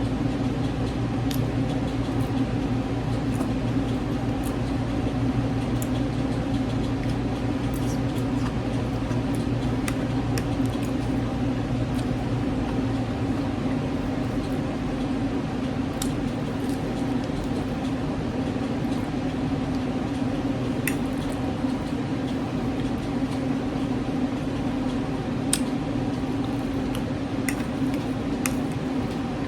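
Close-up eating sounds: soft squishy chewing of mashed potatoes, ham and asparagus, with occasional small clicks of a utensil, over a steady hum whose deeper part drops away about 13 seconds in.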